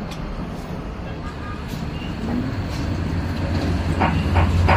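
Low engine-like rumble building up, as of a heavy vehicle passing, then near the end a quick run of sharp knocks, about three a second.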